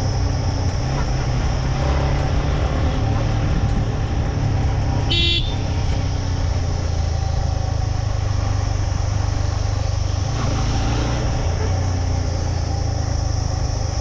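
Motorcycle engine running steadily while riding, with wind noise on the microphone; a single short horn honk sounds about five seconds in.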